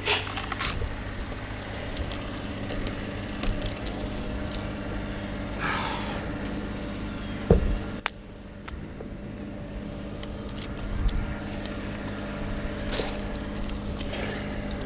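An engine idling steadily, with scattered clicks and knocks and one sharp knock about halfway through.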